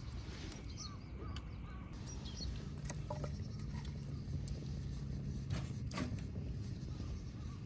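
A few short bird chirps in the first couple of seconds, over a steady low rumble, with a handful of sharp clicks scattered through.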